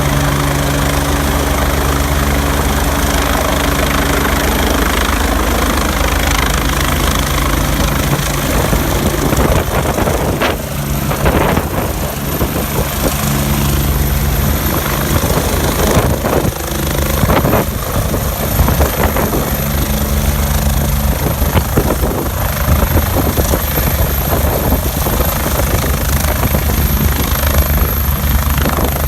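Helicopter running close by: a steady low rotor beat under a dense wash of engine and rotor noise. The noise surges briefly a few times around the middle.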